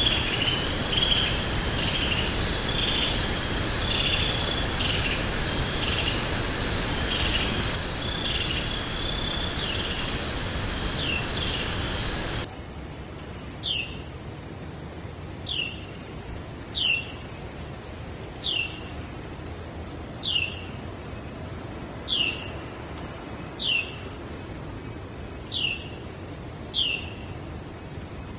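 Forest ambience: insects trill steadily with repeated short chirps over a steady hiss. About twelve seconds in it cuts abruptly to a quieter background where a single bird repeats a short downward-sliding whistle about every second and a half to two seconds.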